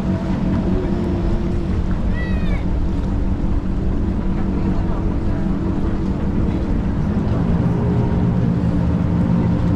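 Boat engine running with a steady low drone, and a short, high, wavering call about two seconds in.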